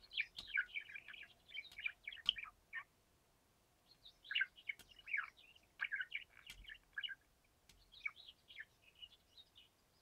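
Birds chirping: quick runs of short, high chirps that slide downward, in three spells with brief pauses between, and a few sharp clicks.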